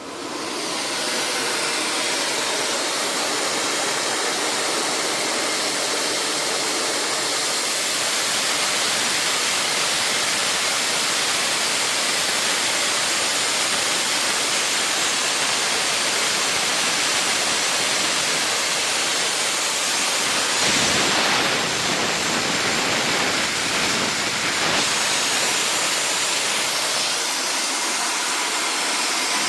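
Compressed nitrogen rushing through a deep freezer's cooling coil to flush out a choke, a loud steady hiss that starts suddenly. It surges a little around two-thirds of the way through.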